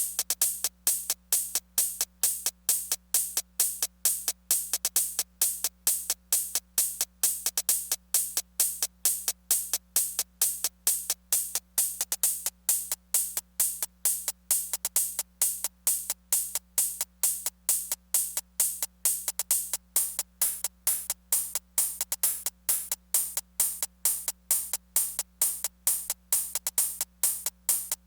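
Korg Electribe Sampler ES2 playing a drum-machine loop: crisp, high, even hits about four a second, with a faint steady hum underneath.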